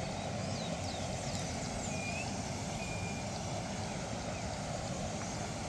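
Steady rush of running water, with small birds chirping over it in the first few seconds.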